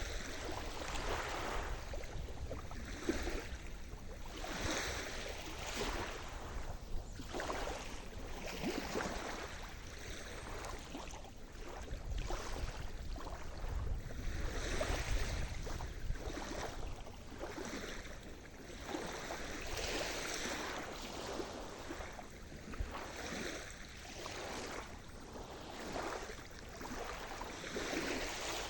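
Sea surf: small waves breaking and washing in one after another, a fresh surge every couple of seconds, over a steady low rumble.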